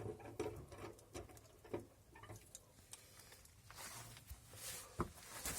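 Faint handling noises: scattered small clicks and rustles, with a sharper click about five seconds in.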